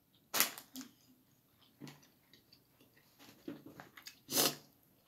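A person chewing a mouthful of very spicy noodles: a few short, separate mouth sounds, the loudest about four seconds in.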